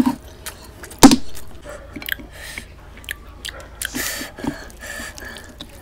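Close-miked chewing and wet mouth and hand sounds of eating curried goat head and rice by hand, with many small clicks and smacks and one loud sharp crack about a second in.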